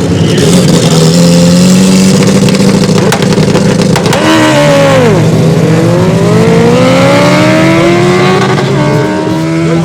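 Drag-race car engines accelerating hard down the strip over a steady engine drone. About four seconds in the pitch drops sharply, then climbs steadily for several seconds, drops again near the end at a gear change and starts climbing again.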